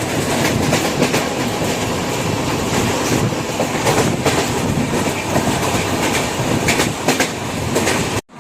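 Train running along the track: a loud steady rumble with scattered clacks of the wheels over rail joints. It cuts off suddenly near the end.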